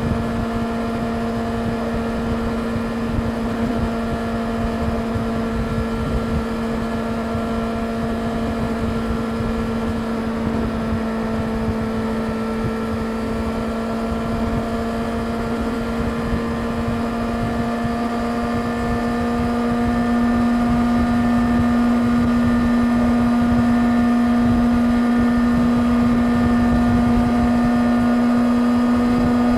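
Yamaha YZF-R6's inline-four engine running at steady revs, with wind rumbling across the microphone. About two-thirds through it gets louder and its pitch creeps up slightly as the throttle opens a little.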